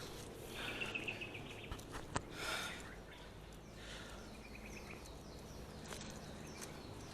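Quiet rainforest ambience with faint bird calls: a short chirping trill about a second in and another around four seconds in, and one sharp click about two seconds in.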